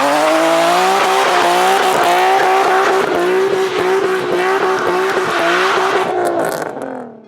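A car doing a burnout: the engine held at high revs while the tires squeal, fading out near the end.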